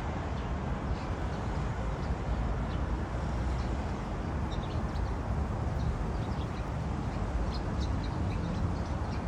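Birds chirping in short, scattered calls over a steady low rumble of city traffic.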